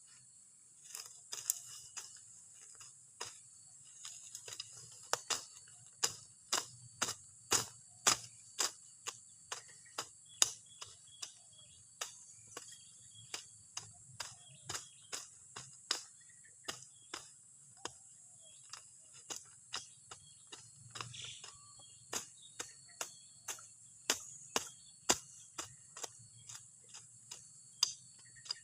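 Steady high-pitched insect chirring, such as crickets, with a long run of sharp clicks or taps at irregular intervals of about half a second to a second, some much louder than others.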